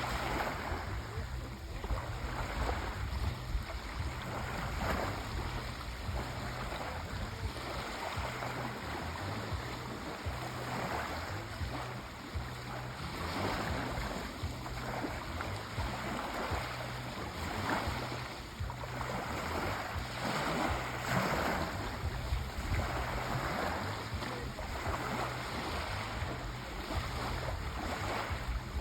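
Sea waves washing onto a shore: a continuous rushing surf that swells and eases every few seconds, over a low rumble.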